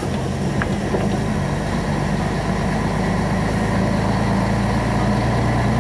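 Truck engine running steadily under way, heard from inside the cab, growing slightly louder.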